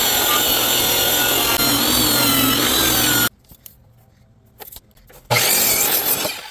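Power tool cutting wood, with a high whine over the cutting noise. It cuts off about three seconds in, is quiet for about two seconds, then runs again for about a second.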